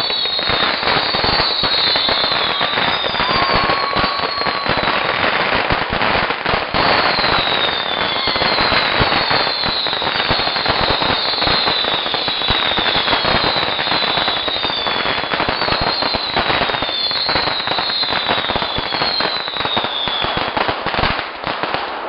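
Fireworks going off continuously: dense crackling and popping, with a string of high whistles that each fall in pitch, one after another every second or so.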